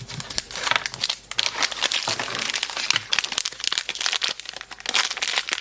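Plastic packaging crinkling as it is handled and unwrapped by hand, a dense run of small irregular crackles.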